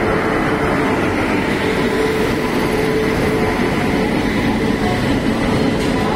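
A passenger train hauled by an Indian Railways WAP-7 electric locomotive running past alongside the platform: a steady rumble of wheels on rails, with a steady hum, as the locomotive gives way to its coaches.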